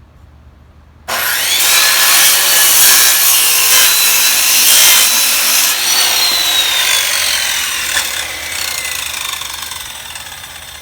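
Old SKIL circular saw with a dull blade starting about a second in and cutting through a 2x4 with three nails hammered into it. About five seconds later the trigger is let go and the motor's whine falls steadily as the blade spins down.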